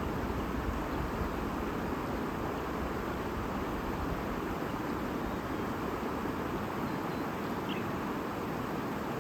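Shallow stream or river babbling in a steady rush of water.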